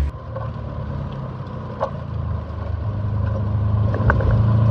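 Turbocharged Subaru EJ21 flat-four engine heard from inside the car at track speed, a steady low drone that grows louder in the second half as the car picks up speed.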